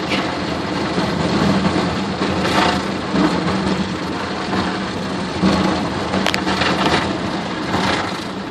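Automatic car wash water jets spraying against the car, heard from inside the cabin as a dense rain-like rush over a steady low hum, with a few sharper hits; it dies down near the end.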